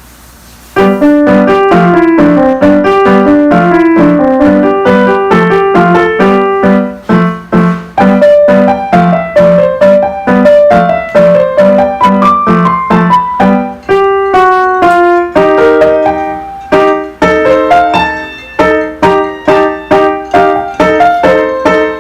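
A child playing a short beginner's piano piece: a steady run of separate notes, a melody over a lower part, starting about a second in.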